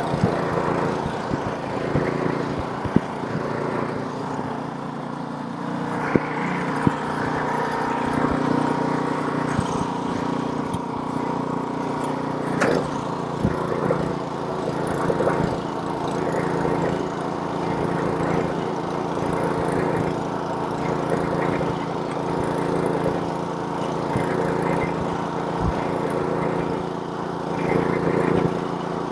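Snowblower's small gasoline engine running steadily under load while clearing snow, with occasional short knocks and clicks.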